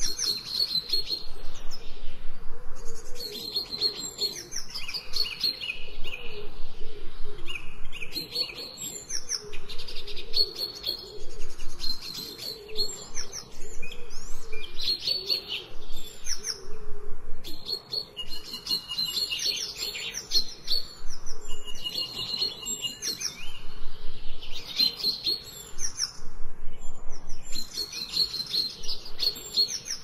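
Songbirds singing, several overlapping chirping phrases that come and go every second or two.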